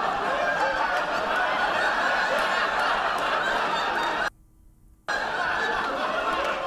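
Studio audience laughter, many people laughing at once. It breaks off abruptly about four seconds in, with near silence for under a second, then resumes.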